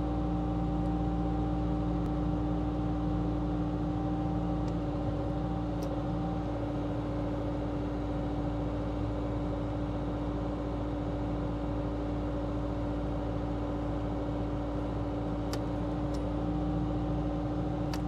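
Heavy diesel engine running at a steady idle, an even drone with a few faint clicks.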